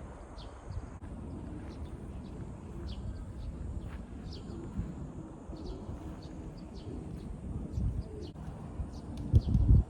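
Birds chirping in many short, high notes over a steady low rumble, with a loud low thump or gust of wind on the microphone near the end.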